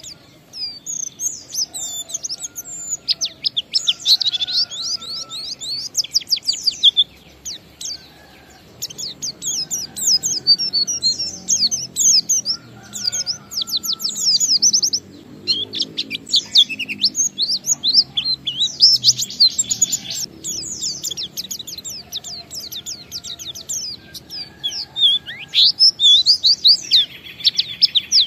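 White-eye (pleci) singing a long, fast, unbroken run of high twittering chirps in the ngalas style, with a brief pause about seven seconds in.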